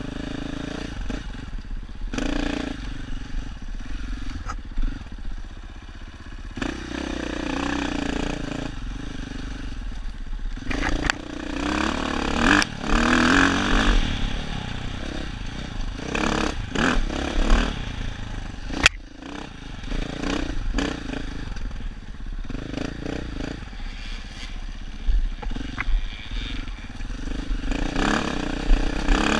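Dirt bike engine running and revving up and down while riding a trail, with sharp knocks and clatter from the bike now and then.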